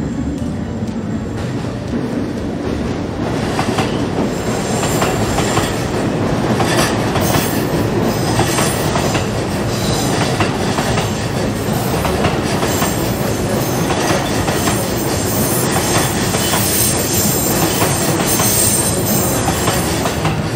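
Electric commuter train running on the curving Ome shortcut line, heard from aboard. The running noise builds over the first few seconds, with repeated clicks of the wheels over rail joints and a faint high wheel squeal now and then.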